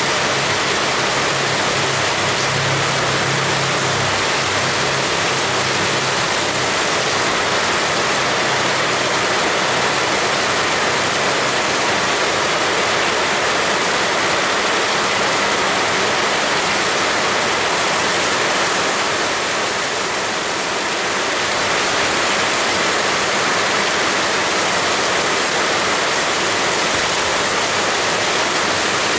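Heavy rain pouring steadily, a dense, even hiss. A faint low hum sits underneath for the first several seconds.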